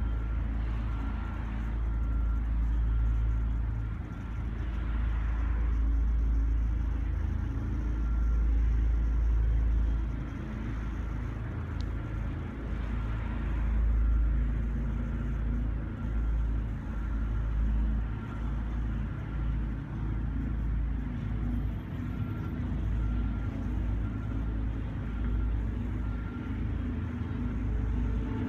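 A deep, continuous rumble that swells and eases every few seconds, with a faint steady high tone above it. It is presented as one of the unidentified 'strange sounds'.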